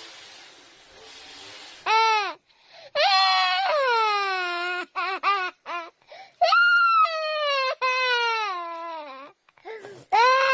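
A baby crying hard: after a couple of seconds of faint hiss come repeated long, high-pitched wails, each sliding down in pitch at its end, broken by short catches of breath.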